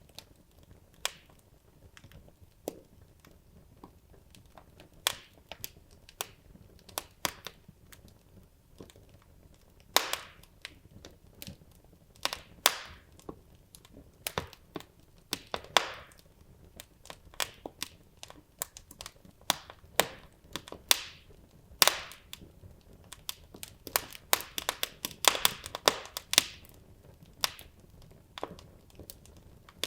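Wood logs burning in a fireplace, crackling with irregular sharp pops and snaps over a faint low hiss, with a denser run of crackles about three-quarters of the way through.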